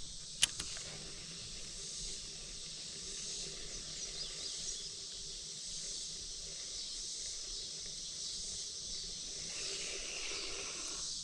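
Steady high-pitched hiss of outdoor background noise beside a creek, either insects or running water, with a single sharp click about half a second in.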